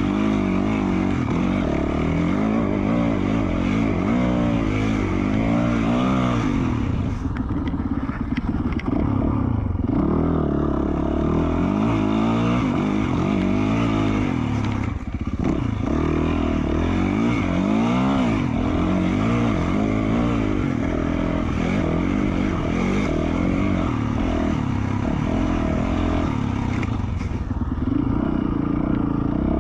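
2020 Yamaha YZ450F single-cylinder four-stroke engine with an FMF Q4 slip-on exhaust, revving up and down over and over as the throttle is worked, with a short dip about halfway through.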